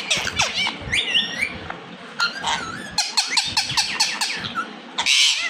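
Indian ringneck parrot making a rapid run of short chirps, clicks and rising and falling whistled notes, with a short harsh burst about five seconds in.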